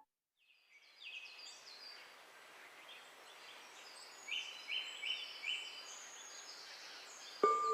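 Birds chirping in quick, repeated short notes over a steady background hiss. Near the end a singing bowl is struck once and keeps ringing.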